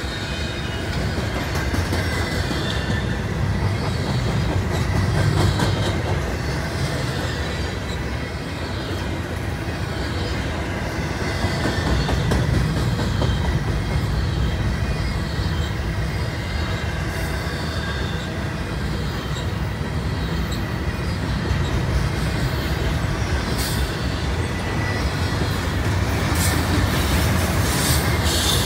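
Double-stack intermodal freight train rolling past: the steel wheels of the container well cars run on the rails with a steady low rumble that swells and eases as the cars go by. A few sharp clicks come near the end.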